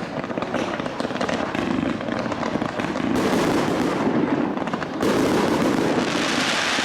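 Fireworks going off: a dense, continuous crackling and popping that swells about three seconds in and again about five seconds in, with a bright hiss near the end.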